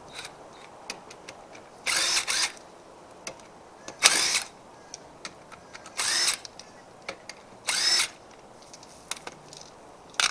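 Power tool run in five short bursts of about half a second each, spinning the lug nuts off a front wheel, with small metallic clicks between the bursts.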